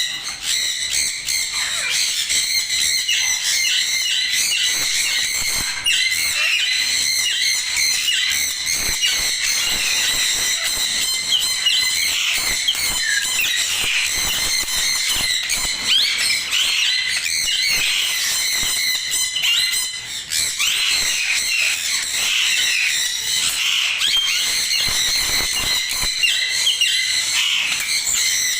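A flock of caged parrots chattering and squawking together in a dense, unbroken chorus of high chirps and short whistled glides.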